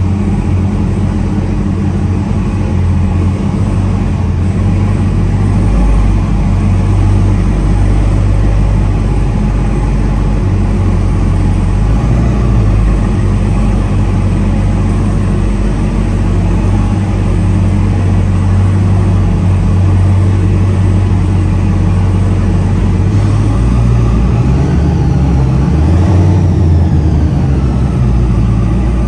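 Supercharged 6.2-litre HEMI V8 of a Dodge Charger SRT Hellcat Redeye running with a loud, steady, deep exhaust rumble.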